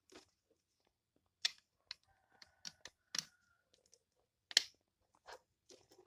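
Irregular light clicks and taps of small hard objects being handled, about a dozen, the loudest about one and a half seconds in and again past four and a half seconds.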